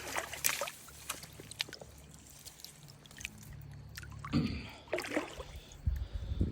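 Water sloshing, dripping and trickling, with scattered small splashes and knocks that grow busier in the last couple of seconds.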